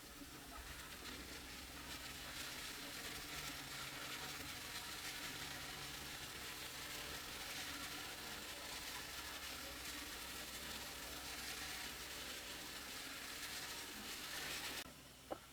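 A steady hiss over a low hum, cutting off abruptly near the end.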